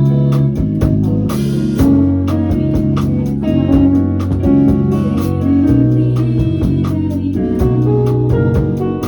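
Band playing a song: guitar and bass notes over a drum kit keeping a steady beat, with a cymbal crash about a second and a half in.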